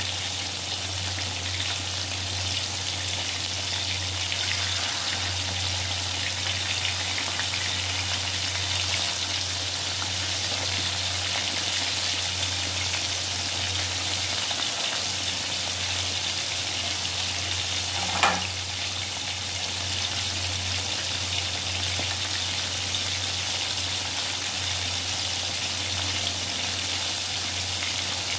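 Chicken pieces deep-frying in hot oil in an aluminium wok, a steady sizzle throughout. One brief sharp knock about two-thirds of the way through.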